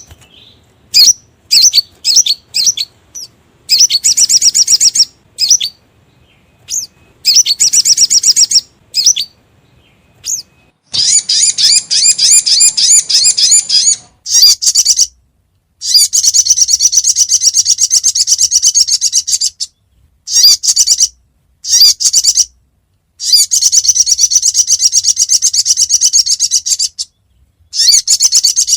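Spiderhunter (sogok ontong) calls played as a bird-lure track: fast strings of high, sharp chip notes in bursts of one to three seconds with short pauses between, some bursts cutting off abruptly.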